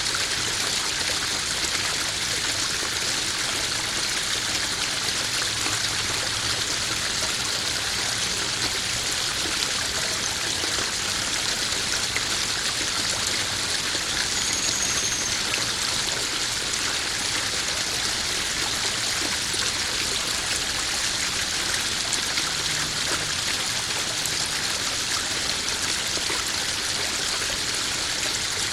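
Small garden waterfall splashing steadily into a koi pond: a continuous, even rush of running water.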